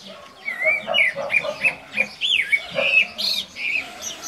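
Bird singing: a quick run of short, chirping notes that bend up and down in pitch, lasting about three seconds.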